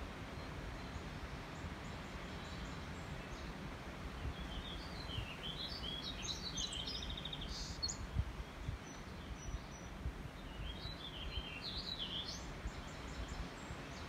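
A songbird singing two quick, warbling phrases of varied high notes, the first about four seconds in and the second near eleven seconds, over a steady low outdoor rumble. There is a brief low thump about eight seconds in.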